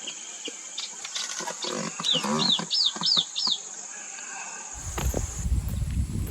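Common babblers calling: quick runs of three or four short, arched whistled notes with harsher chattering between them. Near the end the calls give way to a low rumble with scattered knocks.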